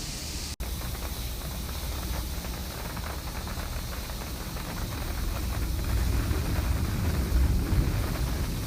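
Steady hiss of rain with a low rumble, growing louder over the second half as the downpour picks up. A brief dropout about half a second in.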